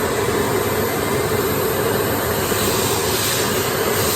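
Philips PowerPro Compact bagless vacuum cleaner running at full power with its bristle brush attachment, a steady rush of suction over a constant hum. The airy hiss turns brighter about two and a half seconds in.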